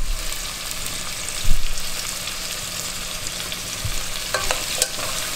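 Onion, ginger, garlic, chili and lemongrass sizzling in hot oil in a pot while being stirred with a spoon: the aromatics being sautéed for a tom yum broth base. A thump comes about a second and a half in, and a few light clinks near the end.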